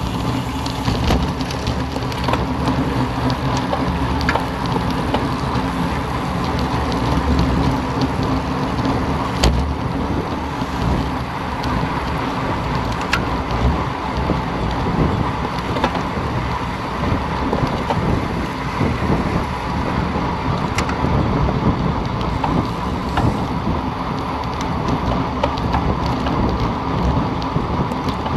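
Steady wind rushing over the microphone, with road and tyre noise from a bicycle riding at speed and a few sharp clicks.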